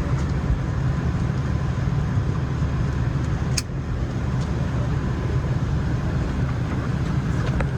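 Steady cabin noise inside a Boeing 737-800, a continuous hiss over a low hum, with a single sharp click about three and a half seconds in.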